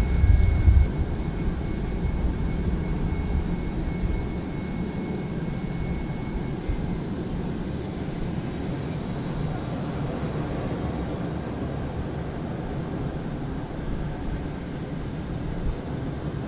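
Jet aircraft engines running on an airport apron: a steady rumble and rushing noise, heaviest in the first second, with a thin high whine that fades out about halfway through.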